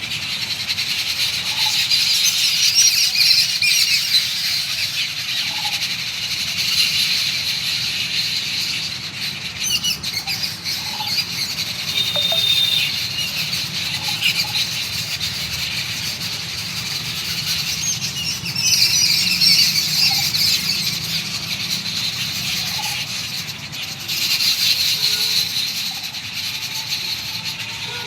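Many small birds chirping together in a dense, unbroken chorus of short high notes that swells and fades several times.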